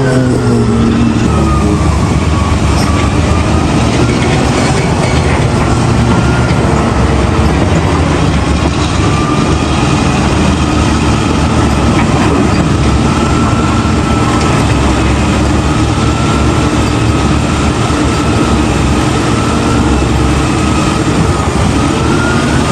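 Heavy diesel earthmoving machinery running steadily at the quarry face. Its engine pitch drifts slowly up and down.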